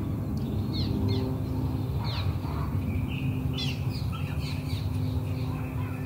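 Forest ambience: songbirds giving short, quickly falling chirps scattered through, over a steady low rumble.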